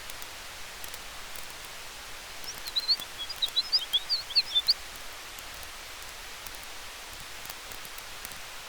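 Steady hiss of a campfire and wind through trees, with faint crackles. About two and a half seconds in, a quick burst of high, sharp chirps from a small bird lasts about two seconds.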